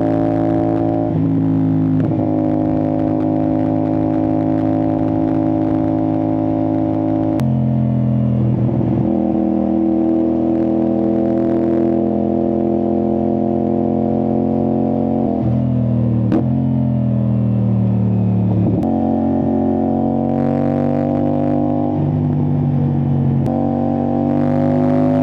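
CFMoto 450SR-S parallel-twin engine running through an Austin Racing aftermarket exhaust under way at road speed. It holds a steady drone, with several sudden steps in pitch as gears change; after one upshift the pitch drops and then climbs slowly as the bike pulls.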